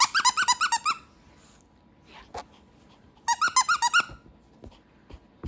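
Squeaky dog toy being chomped by a Pomeranian, giving quick runs of high squeaks: one burst of rapid squeaks at the start and another about three seconds in.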